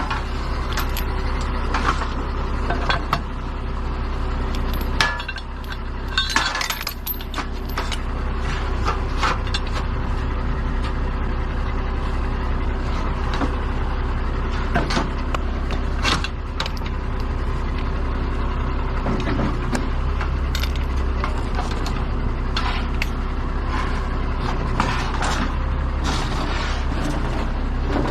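A large truck's engine running steadily with a low hum, with scattered clicks and rattles over it.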